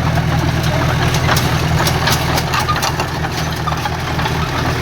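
Heavy diesel earthmoving machine running steadily close by, with irregular sharp metallic clanks over the engine.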